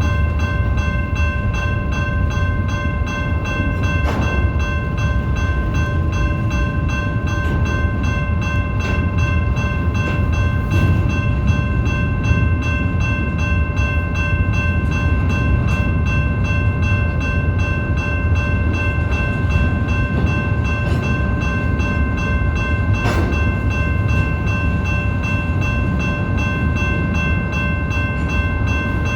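BNSF freight train rolling past: a steady low rumble of wheels on rail, with a constant high ringing tone held over it and a couple of brief clanks.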